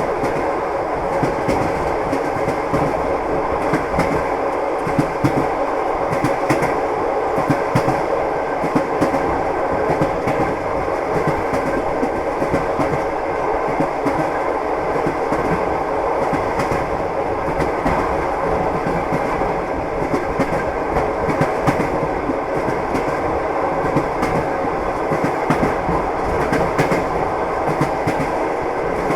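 Train running at steady speed, its wheels clattering over the rail joints over a continuous rumble, with many short knocks throughout.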